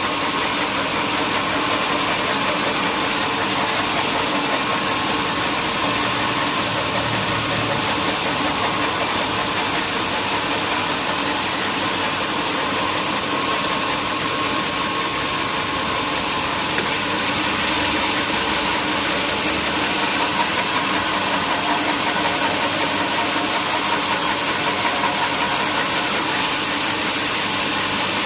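Sawmill machinery running steadily: a continuous mechanical drone with a hiss over it.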